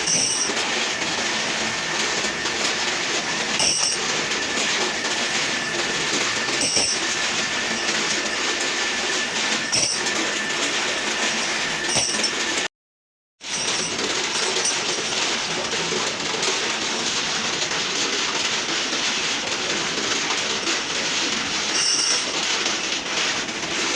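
Steady, noisy machinery clatter with occasional sharp clicks. It breaks off for a moment of dead silence about 13 seconds in, then resumes.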